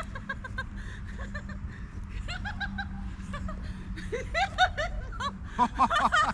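A person laughing in short bursts of giggles and chuckles that come more thickly near the end.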